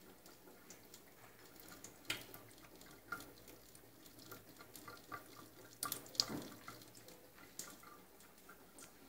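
Water dripping and trickling from a tap while a cat laps from it: faint, irregular small clicks and splashes, the loudest about six seconds in.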